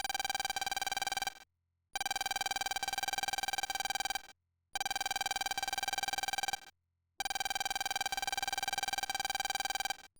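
Electronic ringing tone with a fast flutter, sounding in four bursts about two seconds long with short silent gaps between them.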